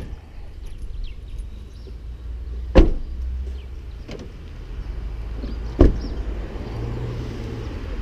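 Two sharp thumps about three seconds apart, like car doors being shut, over a low steady rumble.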